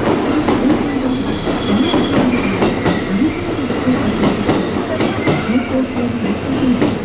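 An electric commuter train running along a station platform, its wheels clacking over the rail joints with a wavering whine and faint high wheel squeal.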